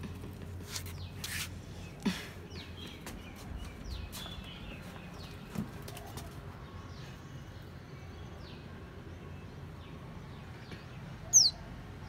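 Small songbirds chirping back and forth: a fledgling and another bird of its kind call to each other with short, high, falling chirps repeated about once a second. A few sharp clicks come in the first two seconds, and one louder, sharper chirp comes near the end.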